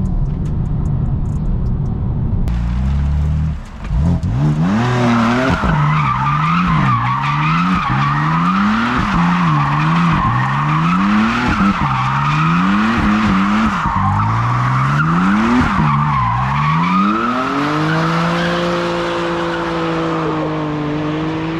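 A BMW M4 Competition's twin-turbo straight-six starts with a steady drone at cruising speed inside the cabin. After a break it is worked hard in a drift. The revs rise and fall about once a second while the tyres squeal, then near the end they climb and are held high with the tyres still spinning and squealing.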